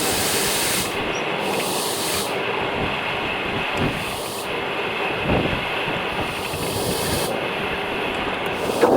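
Heavy rain falling as a steady hiss.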